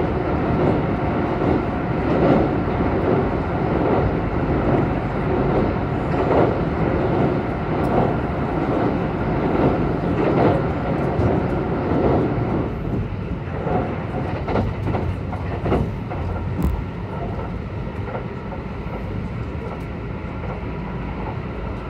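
Kintetsu 22000 series electric express train running at speed, heard from inside the car. It rumbles loudly, with pulsing surges, while crossing a steel truss bridge, then drops to a quieter steady running noise with scattered wheel clicks about halfway through.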